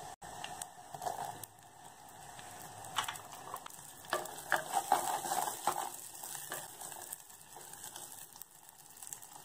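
Garlic and whole shallots frying with a steady sizzle in hot oil in a clay pot. Short clinks and scrapes of a metal spoon stirring against the pot cluster in the middle.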